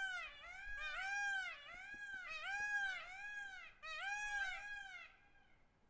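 Peacock calling: a rapid series of short, loud calls that each rise and fall in pitch, about two a second, with the calls overlapping one another; they stop about five seconds in.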